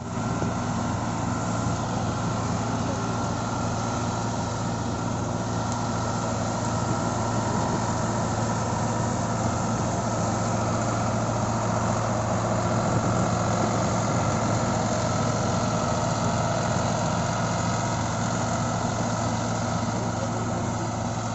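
Diesel tractor engine running at a steady speed, its level swelling slightly a little past the middle.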